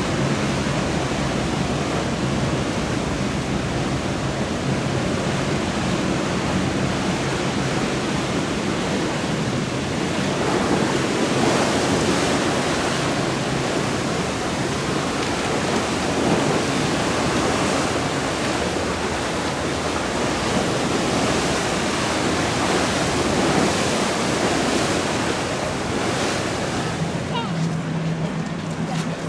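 Steady rush of surf and churned water with wind on the microphone. A low boat-engine hum shows faintly underneath at the start and again near the end.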